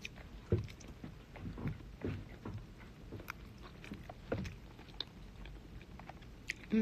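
A person biting and chewing chicken wings close to the phone's microphone: faint, irregular small clicks and soft thumps.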